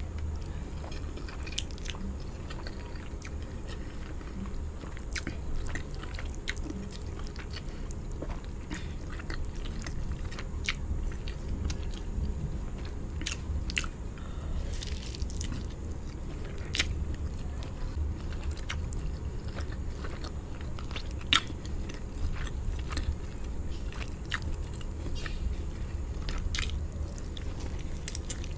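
Close-miked chewing and biting of a person eating a chicken drumstick and rice with palava sauce by hand: scattered wet mouth clicks, smacks and small crunches, with one sharper click about three quarters of the way through, over a low steady hum.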